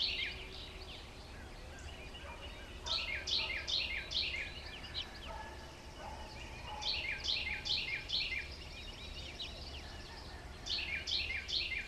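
Bird calls: three bursts of rapid, repeated short falling notes, each about a second and a half long, over a faint low hum.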